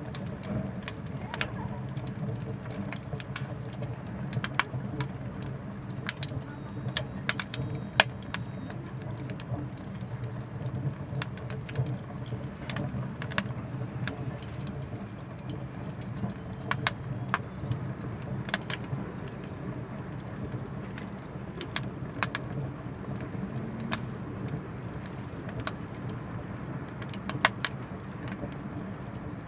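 Oak firewood burning in an Anevay Frontier Stove Plus wood stove: a steady low rush of the fire with irregular sharp crackles and pops, a few louder snaps about 8 s and 18 s in and a cluster near the end.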